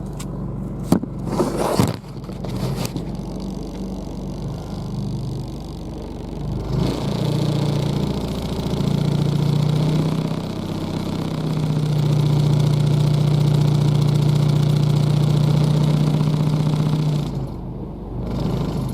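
Honda Civic engine running, heard from inside the cabin, with a loud, steady low drone of vibration that builds about seven seconds in and eases near the end. The shaking comes from a broken engine mount that has let the engine shift until the exhaust rests on the frame.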